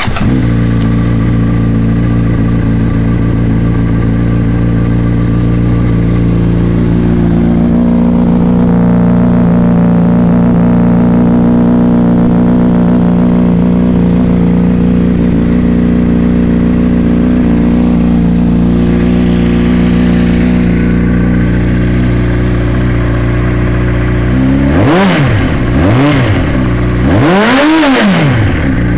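2003 Honda CBR600RR's inline-four engine idling steadily through a Jardine RT-One aftermarket exhaust, then revved three times near the end. Each rev rises and falls quickly, and the third is held a little longer.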